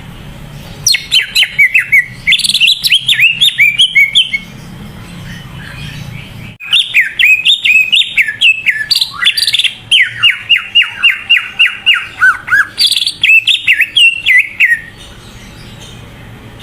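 Cucak ijo (greater green leafbird) singing loudly in two bouts of quick, downward-slurred whistled notes. The second bout is longer and holds a run of about a dozen evenly repeated notes near its middle.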